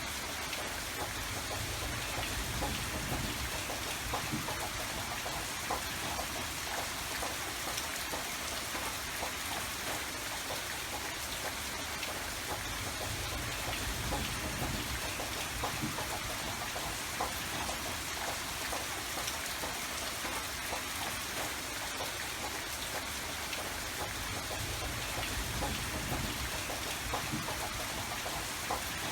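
Steady rain falling, with many individual drops pattering on a surface over a soft low rumble.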